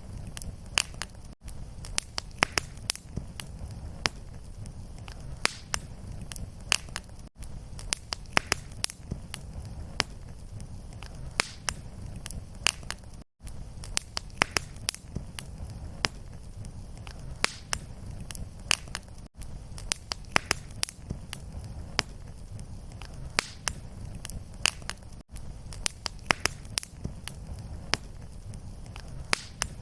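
Fireplace wood fire crackling: a dense, irregular run of sharp pops and snaps over a low steady rumble. There is a brief gap in the sound about every six seconds, where the looped recording restarts.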